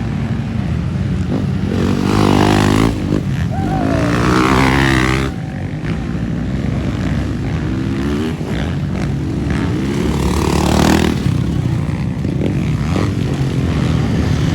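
Motocross dirt bike engines revving hard, their pitch climbing and dropping with the throttle as bikes race past, louder with each pass, about three times.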